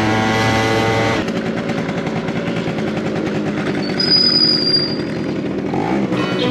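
Small motorcycle or scooter engine revving while riding, held high for about a second and then dropping back to a lower, steady running note as the throttle eases. A brief high-pitched tone sounds about four seconds in.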